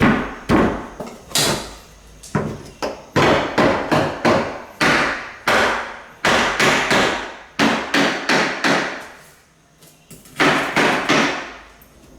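Hammer blows on hardwood floorboards being installed, a long series of sharp strikes in quick runs, with a short lull near the end.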